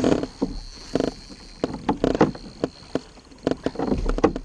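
Water slapping and knocking against a plastic fishing kayak's hull in an irregular run of short strikes, with a faint steady high whine underneath.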